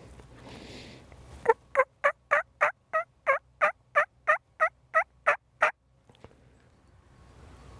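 Turkey yelping: a run of about fourteen evenly spaced yelps, about three a second, each note dropping in pitch.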